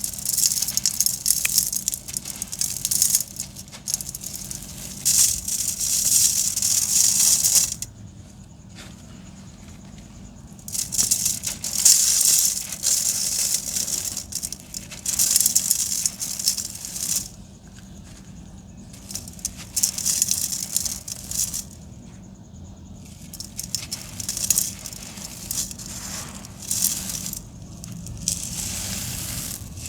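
Dry sand-cement chunks crumbling, with gritty crunching and grains pattering down. It comes in bursts of a few seconds with short quieter pauses between them.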